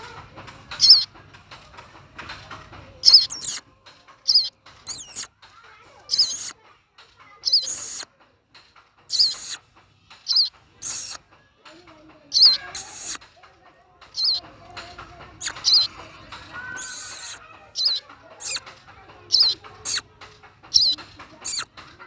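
Fledgling songbird calling from its nest: short, sharp, high-pitched chirps repeated about every one to two seconds, coming closer together in the last few seconds.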